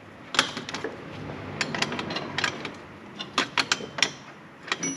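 Ratchet wrench clicking in short irregular runs while exhaust clamp nuts are snugged loosely, with a few metallic taps from the exhaust parts.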